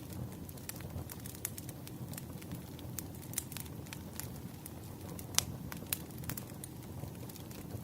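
Campfire burning: a steady low rumble of flames with irregular sharp crackles and pops of burning wood, the loudest pop a little past halfway.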